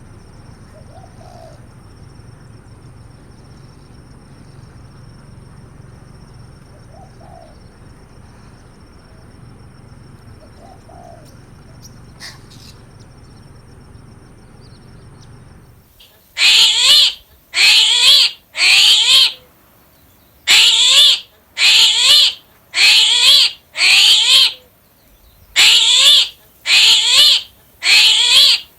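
A bird giving loud, harsh calls over and over, about one a second, each with a falling pitch, starting a little over halfway in. Before that there is only a steady low rumble with a few faint short calls.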